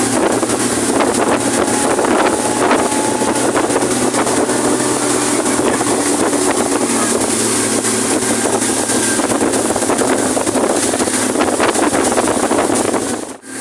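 Speedboat running at speed, a steady engine drone and rush of water with wind buffeting the microphone.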